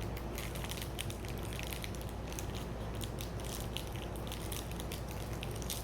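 Many small rapid crackles and crunches from a crispy, chocolate-coated peanut butter snack bar being handled and bitten, over a steady low hum of a fan, air conditioning and a clothes dryer.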